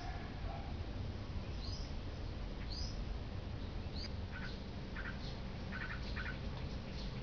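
Wild birds calling: a short, sharp high chirp repeated about once a second, then quick clusters of twittering notes from about four seconds in, over steady low background noise.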